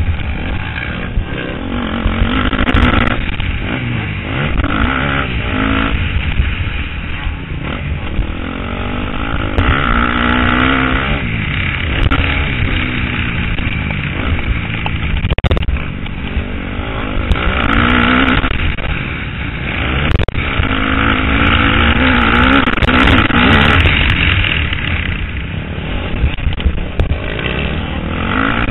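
KTM 250 SX-F four-stroke single-cylinder motocross engine, revving up and backing off again and again, its pitch climbing and dropping with throttle and gear changes, over a steady low rumble. Heard through a helmet-mounted camera.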